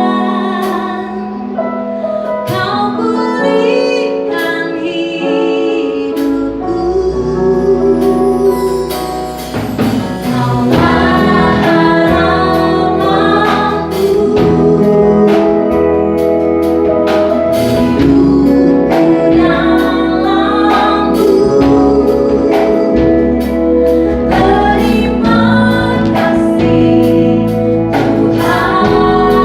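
Live praise-and-worship song: singing over a band, starting light and filling out as bass comes in about six seconds in and drums join a couple of seconds later.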